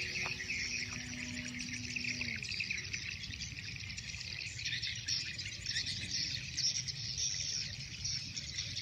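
Dense, continuous chorus of insects chirring with birds chirping. A faint steady hum dips in pitch and fades out about two seconds in.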